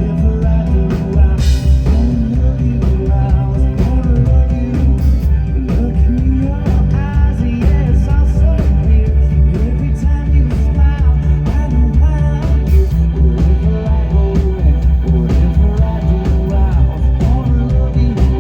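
Live country-rock band playing through an outdoor PA: electric guitar over bass and a steady drum beat, with some singing.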